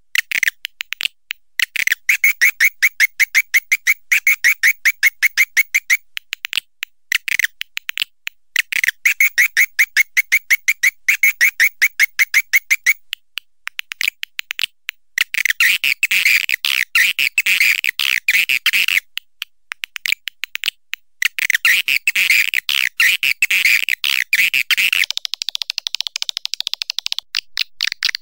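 Swiftlet call recording used as a lure sound for swiftlet nesting houses. It plays rapid trains of short, high chirps in bursts of about four seconds, with the later bursts denser and harsher.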